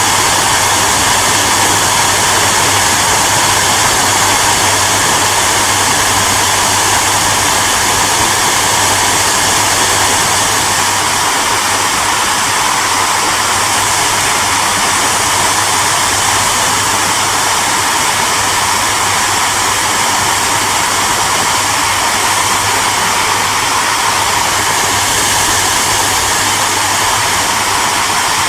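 Hair dryer running steadily: a continuous rushing blow of air with a low motor hum underneath.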